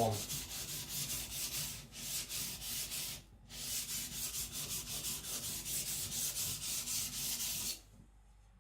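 Steel knife blade being stroked back and forth on a whetstone, a quick run of scratchy grinding strokes at about three to four a second, with a brief pause about three seconds in, stopping shortly before the end. The hard Niolox steel of the nakiri is being ground down, slow, tiring work.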